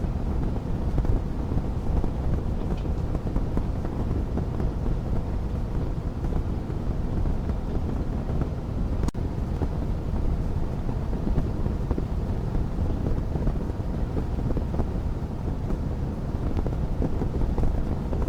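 Wood fire burning in a fireplace: a steady low rumble of flame with faint scattered crackles, and one sharp pop about halfway through.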